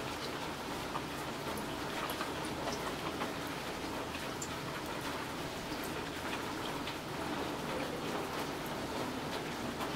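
Steady rain falling, a constant hiss with many scattered individual drops clicking close by.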